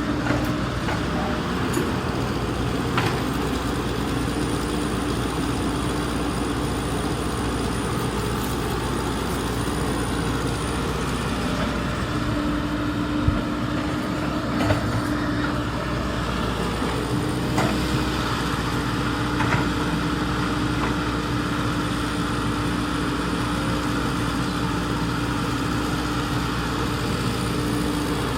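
Hydraulic excavator running steadily, with a hum that drops out and comes back and a few faint knocks.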